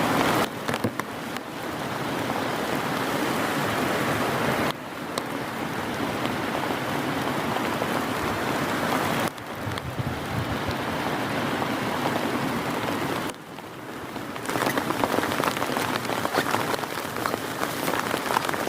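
Heavy rain falling steadily, its level dropping abruptly a few times. In the last few seconds, many sharp individual drop impacts stand out.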